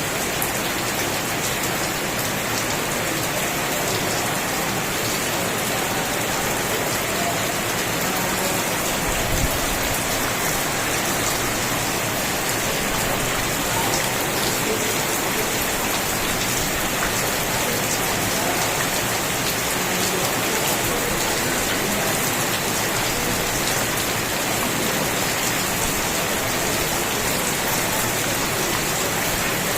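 Steady rain falling, with many fine drops pattering on a surface, and a brief low thump about nine seconds in.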